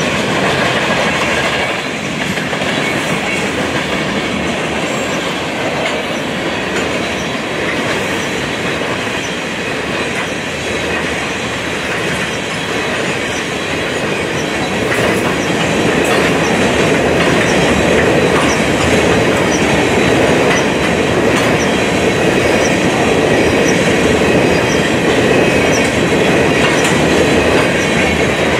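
Freight train of tank cars rolling past, a steady rumble of steel wheels on the rails. It grows a little louder about halfway through.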